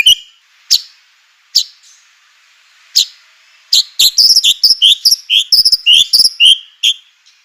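White-rumped shama (murai batu) singing: three sharp, separate, loud notes spaced a second or so apart, then, from about four seconds in, a fast run of repeated rising two-part chirps.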